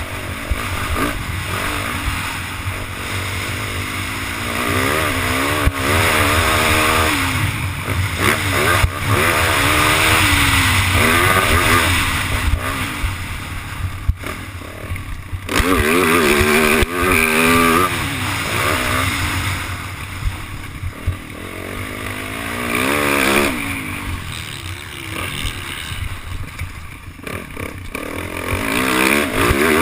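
Yamaha YZ450F four-stroke single-cylinder dirt bike engine being ridden hard, revving up and down over and over, its pitch climbing and dropping with the throttle and gear changes.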